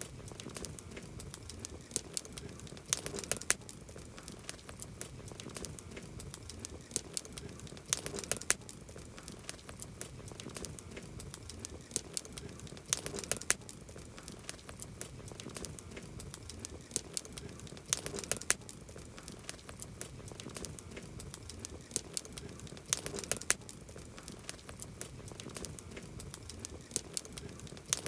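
Campfire crackling: a steady stream of sharp snaps and pops from burning wood over a soft hiss, with a louder cluster of snaps about every five seconds.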